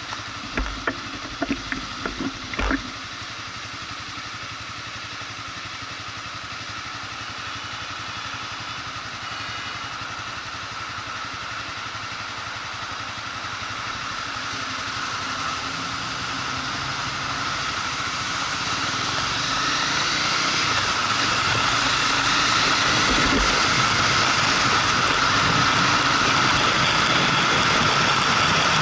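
Motorcycle running on the road, with a few sharp knocks in the first three seconds. The sound grows steadily louder from about halfway through and stays loud to the end.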